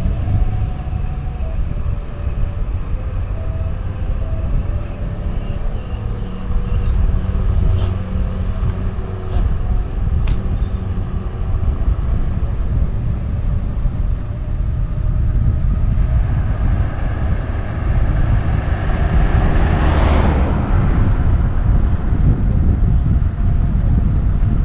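Wind buffeting and road rumble on a helmet-mounted GoPro during a bike ride, loud and steady. A vehicle passes about 20 seconds in, its noise building over several seconds and then falling away.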